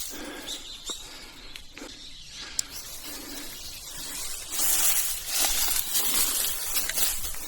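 Hiker's footsteps and rustling on a forest trail: a quieter pause with a single sharp click, then steady steps crunching through leaves and brush resume about halfway through.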